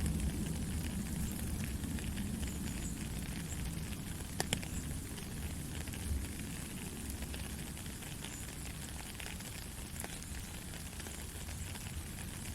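Steady rain falling, an even hiss with scattered drops tapping and a sharper drip about four and a half seconds in.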